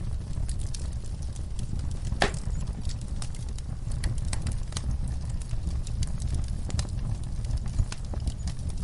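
Fire in a fireplace crackling: a steady low rumble of flames with many small pops and snaps, and one louder pop about two seconds in.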